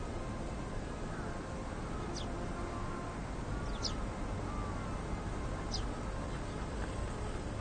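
Faint bird calls over steady low background noise: a few quick high chirps about two seconds apart and soft, arching whistles.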